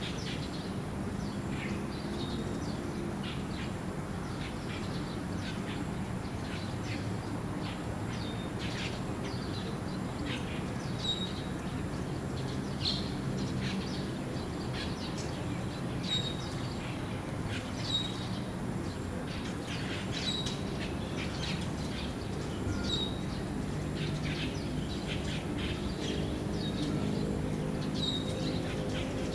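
Birds giving short, sharp high chirps, one every second or two, over a steady low hum of background noise.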